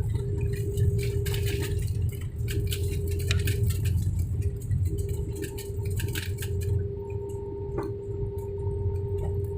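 Cabin noise inside an Airbus A320neo: a steady low engine and airflow rumble with a constant hum tone, and rapid rattling and clicking of cabin fittings that thins out about seven seconds in.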